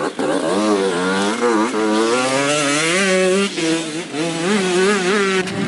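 Motocross bike engines revving, their pitch rising and falling constantly.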